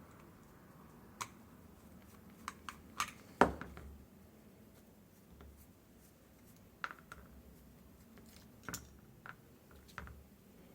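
Scattered small clicks and taps of a string trimmer's carburetor being taken apart by hand, its small parts and tools knocking together, with the loudest knock about three and a half seconds in.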